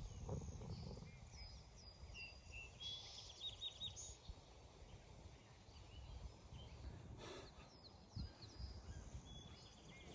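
Faint outdoor ambience: small birds chirping and trilling over a low rumble, with a brief rustle about seven seconds in.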